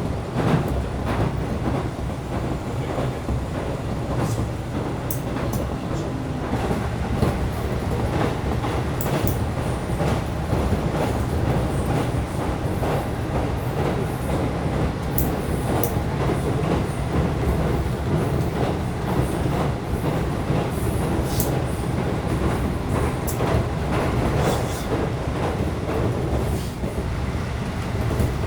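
Electric passenger train on the Tokaido Line running steadily, heard from inside the carriage: a continuous low rumble of wheels on rail with scattered light clicks and rattles.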